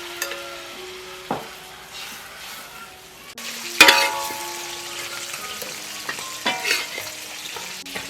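Food frying and sizzling in a pan while it is stirred, with a sharp knock of the utensil against the pan about a second in and a louder clatter nearly four seconds in.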